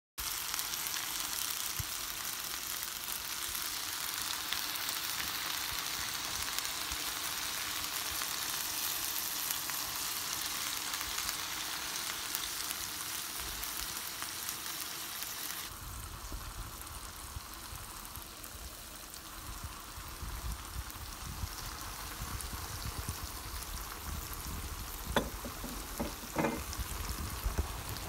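Chicken breast and vegetables sizzling as they stir-fry in coconut oil in a pan. About halfway through, the hiss turns softer and a low rumble comes in; a few sharp knocks are heard near the end.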